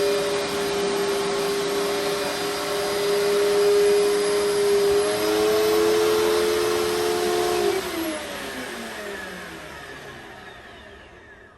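Upright carpet cleaner's motor running steadily, then switched off about eight seconds in, its whine falling in pitch and fading as it spins down.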